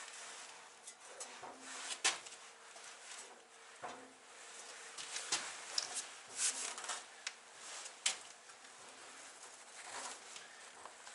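Scattered light knocks and clicks, irregular and of varying loudness, with a few sharper ones spread throughout.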